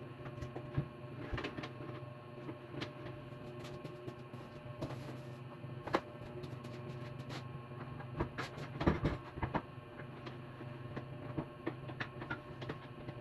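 Irregular knocks and clicks, as of table parts and hand tools being handled during assembly, with a cluster of knocks about nine seconds in, over a steady low hum.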